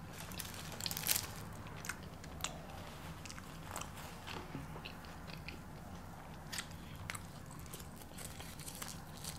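A person chewing crunchy fried fast food close to the microphone: scattered soft crunches and small mouth clicks.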